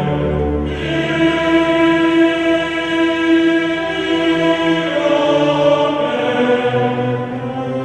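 Background music: a choir singing long held chords, the chord changing about a second in and again near five seconds.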